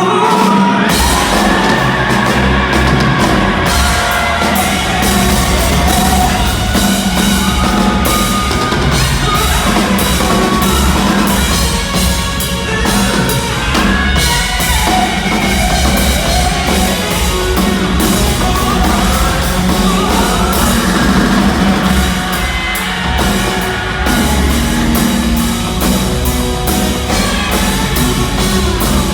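Rock band playing loud and full, with the drum kit's beat and cymbals prominent over the rest of the band.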